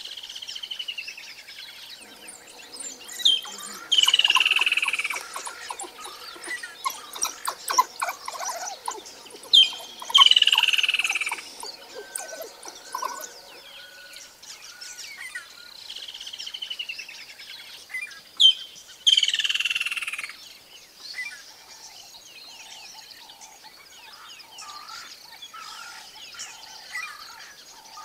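Birds calling: a falling whistled phrase repeated several times, the loudest ones each led by a sharp high note, with scattered short chirps and a run of rapid clicking notes in between.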